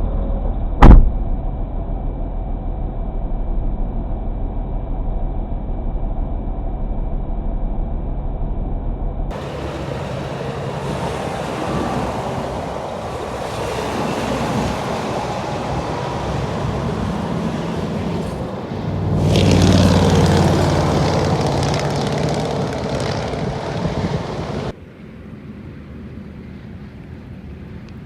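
Passing highway traffic, heard as a steady noisy hum; a heavier vehicle grows louder and goes by about two-thirds of the way through. There is one loud sharp knock about a second in, and the sound changes abruptly twice where clips are joined.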